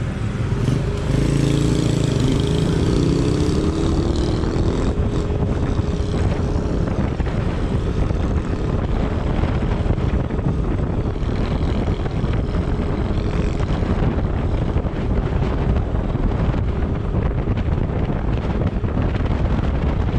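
Road vehicle under way: steady engine and road noise with wind on the microphone. An engine tone shifts in pitch during the first few seconds.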